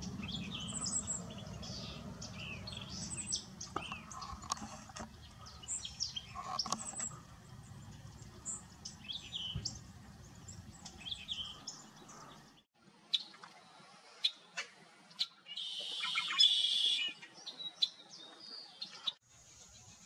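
Birds calling with many short, high chirps over a low background rumble. After an abrupt change about twelve and a half seconds in come scattered clicks and a louder harsh, noisy sound lasting about a second and a half.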